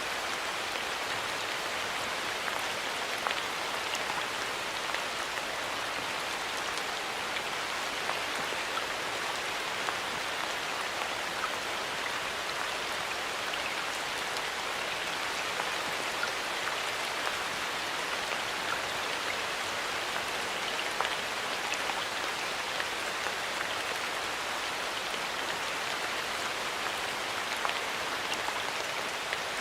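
Steady rain falling in a forest, an even hiss of rainfall with many separate drops ticking on leaves and surfaces.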